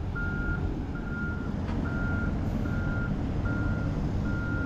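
Kobelco SK210 excavator's travel alarm beeping evenly, a little more than once a second, over the steady low rumble of its diesel engine as it tracks slowly onto a trailer.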